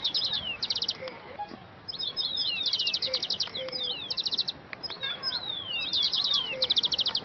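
Songbirds chirping: repeated high, rapid clicking trills alternating with short downward-sliding chirps, coming again every second or so.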